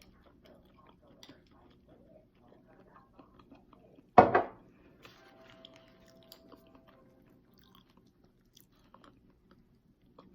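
A person chewing and biting food up close to the microphone, with soft, scattered wet mouth clicks. About four seconds in comes one short, loud vocal sound.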